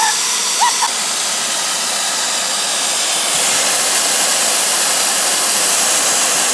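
Refrigerant gas hissing out of an air conditioner's broken line in a loud, steady rush.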